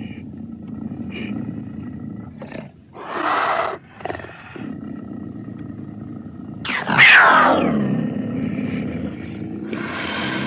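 Edited, processed hamster vocal sound effects: a continuous low growling rumble with two short hissy bursts, and one loud screech about seven seconds in that sweeps steeply down in pitch.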